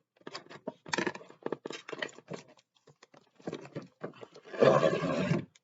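Packaging being handled as a model car is pulled out of its box: a run of small crackles and clicks, then a louder, longer rustle about four and a half seconds in.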